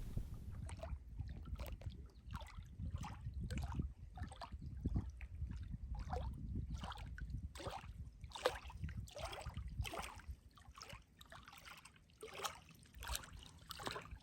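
Water sloshing and lapping in short, irregular splashes, about one or two a second, over a low rumble.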